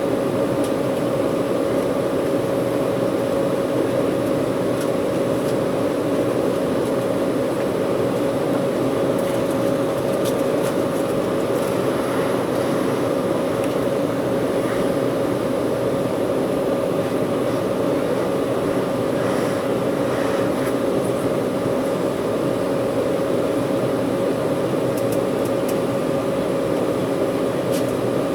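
Steady airliner cabin noise inside an Embraer 190: the engines running evenly with a constant hum and tone, over the hiss of the cabin air conditioning.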